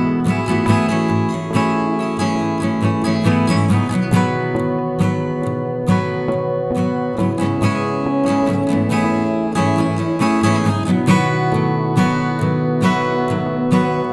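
Music led by a strummed acoustic guitar, with steady rhythmic strums.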